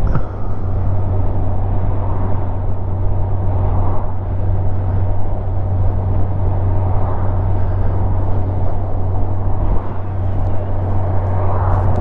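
Motorcycle riding along: a steady low engine hum under the rush of wind and road noise at the rider's helmet.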